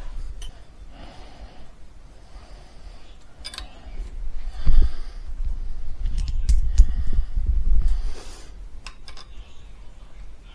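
A man breathing heavily in repeated hissy breaths while working, with scattered sharp clicks and several dull knocks from parts and tools being handled, loudest about halfway through.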